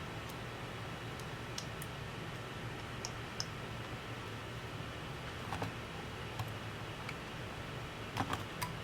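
Light, scattered clicks and ticks of tools and small parts being handled during a laptop teardown, about ten over several seconds, over a steady low hum.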